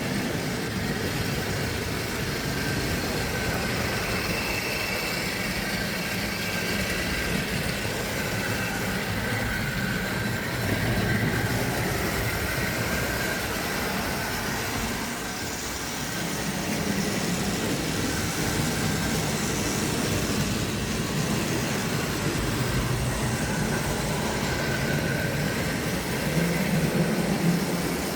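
Tri-ang OO gauge model train running around the track: a steady electric-motor hum and rolling rumble from wheels on rail, with a faint whine that wavers in pitch.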